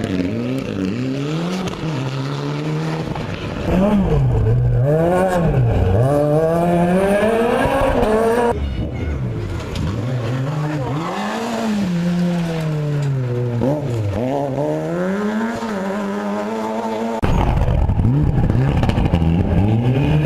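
Rally cars driven hard on a special stage, engines revving up and dropping back again and again through gear changes and lifts. The sound changes abruptly three times as one car gives way to the next.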